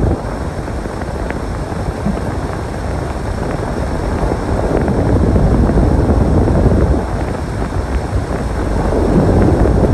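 Snowstorm wind blowing across the microphone: a loud low rumbling rush that swells in gusts about halfway through and again near the end.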